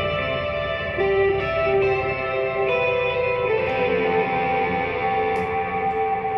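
Electric guitar played through an effects pedalboard with heavy ambient reverb: slow, sustained notes that ring into one another in a continuous wash, a new note or chord about every second.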